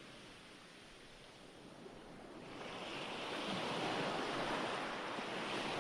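Ocean surf from a waves background recording: a wave washes in, the hiss of the water swelling up from a quiet lull about two and a half seconds in.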